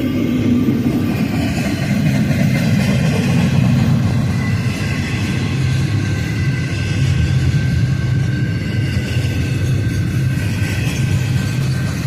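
Union Pacific intermodal freight train's cars rolling past, a steady low rumble of wheels on rail with a few faint high steady tones above it.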